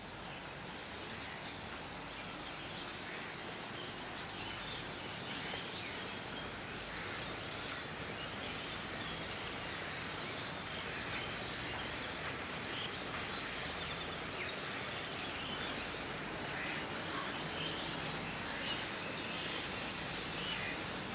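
Many birds chirping and calling over a steady outdoor hiss.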